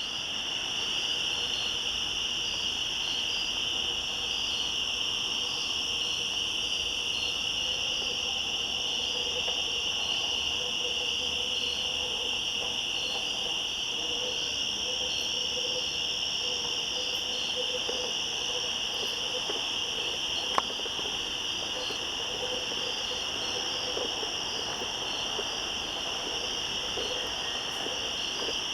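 Cicadas calling in chorus: a steady high buzz, with a pulsing call repeating about twice a second above it. A single sharp click about two-thirds of the way through.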